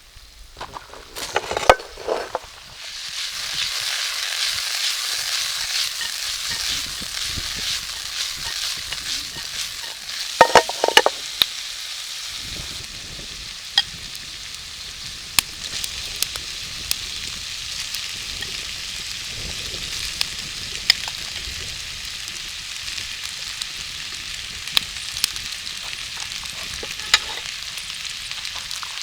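Food frying and sizzling in a hot pan over a campfire, the sizzle swelling up about three seconds in and then running steadily. A utensil stirring and knocking against the pan, with a louder clatter near the start and again about ten seconds in.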